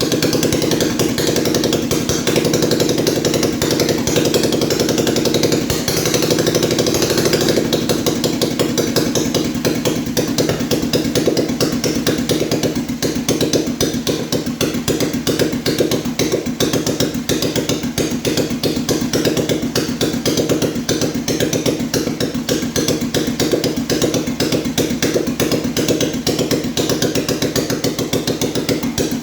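A 1938 BMW R35's single-cylinder four-stroke engine running on a test run after rebuilding, a rapid steady train of firing knocks with mechanical clatter. It runs a little harder for the first several seconds, then settles to a steady idle.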